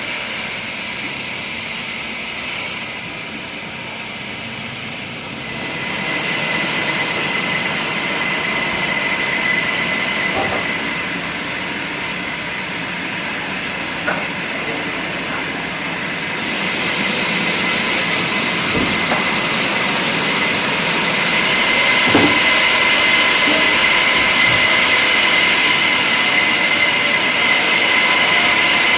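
Workshop machinery running steadily with a high whine over a loud hiss, growing louder twice as machines come on or are loaded, with a few faint knocks.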